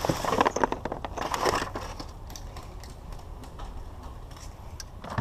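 Scrap electronics being handled at a curbside pile: hard plastic and metal clattering and crunching, busiest in the first two seconds, then a few scattered clicks.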